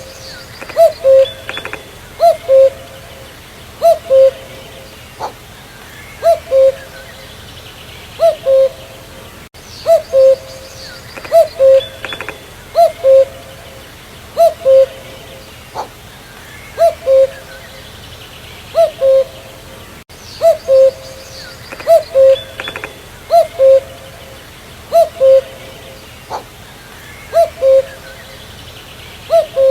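Common cuckoo calling its two-note "cu-coo", a higher note followed by a lower one, repeated steadily about every one and a half seconds.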